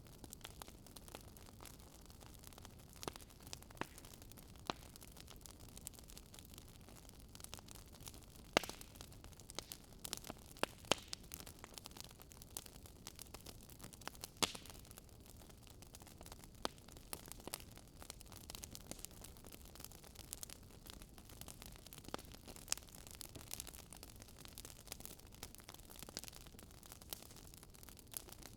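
Wood fire crackling: faint steady hiss of the flames with irregular sharp pops and snaps from the burning logs, a few louder ones scattered through.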